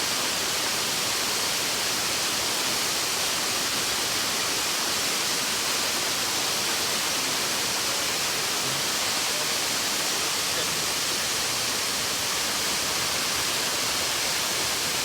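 Waterfall: a steady rush of falling water, even and unbroken, strongest in the hiss.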